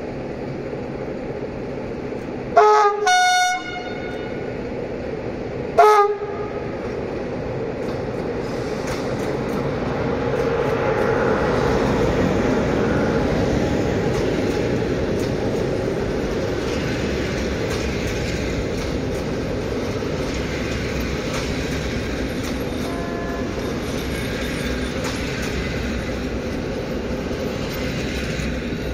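060-EA electric locomotive's horn sounding twice as the train arrives: a blast of about a second, then a short one about three seconds later. Then the passenger coaches roll past with a steady rolling noise that grows louder and holds.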